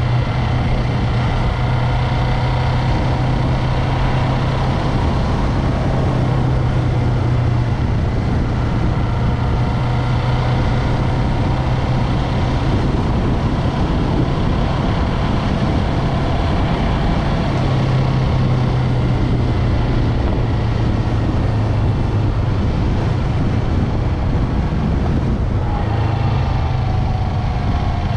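Yamaha MT-03 motorcycle engine running steadily while riding, with wind and road noise. The engine note drifts gently in pitch, and a falling tone appears near the end.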